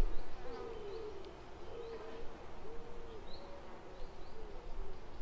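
A bird's low cooing calls, short arched notes repeated over and over, with faint high chirps of a small bird among them.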